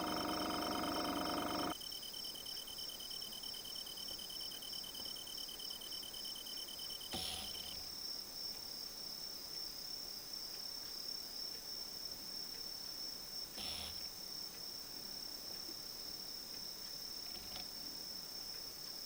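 Crickets chirping in steady, fast-pulsed high trills, one of which stops partway through. A steady hum stops abruptly about two seconds in, and there are two faint clicks later on.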